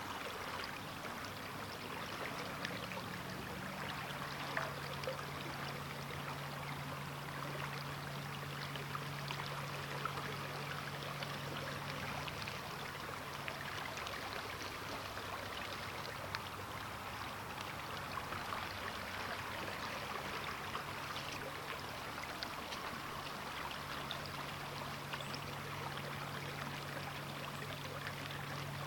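The Sturgeon River's current flowing steadily, with a constant rushing and many small gurgles and plinks of moving water.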